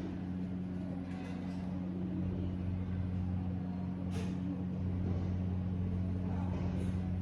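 Steady low mechanical hum with an even, unchanging pitch, with two light clicks about four and seven seconds in.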